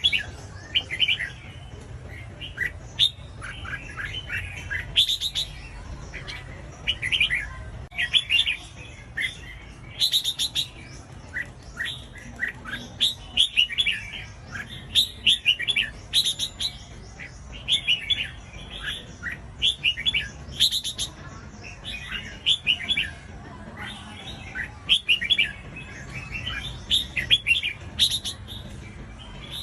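Red-whiskered bulbul singing: short, bright, chirpy whistled phrases repeated about once a second, with hardly a pause.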